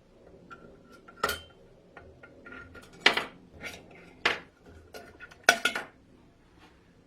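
Hard dishes and utensils being handled, with a series of sharp clinks, four of them louder, and a faint ringing between them.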